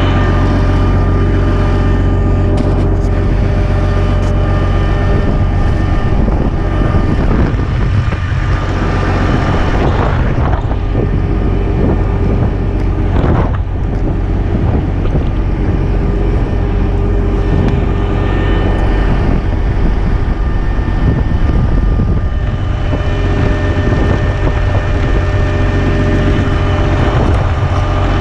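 Semi truck's diesel engine idling steadily, with strong wind buffeting the microphone.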